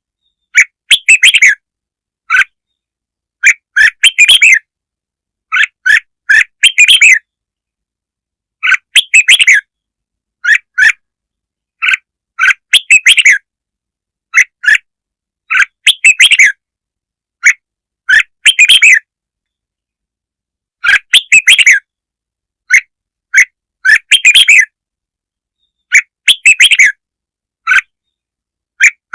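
Red-whiskered bulbul song: short, bright chattering phrases repeated every one to three seconds, with dead silence between them. It is a lure track used to rouse bulbuls.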